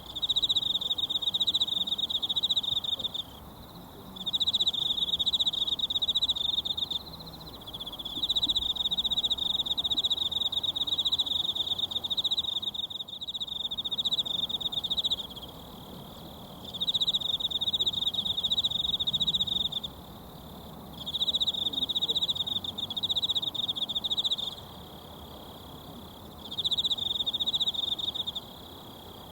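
A mountain stream murmuring steadily under an insect's high, rapid trill. The trill comes in six runs of a few seconds each, broken by pauses of a second or two, and is the loudest sound.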